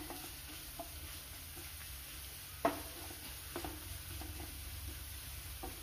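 Thin coconut slivers frying in ghee with a faint sizzle as they brown, and a wooden spatula stirring and scraping them around a non-stick pan, with a few light taps and one sharper knock against the pan about two and a half seconds in.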